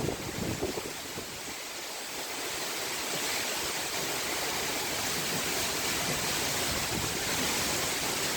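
Heavy windstorm: a steady, rushing hiss of storm wind and rain.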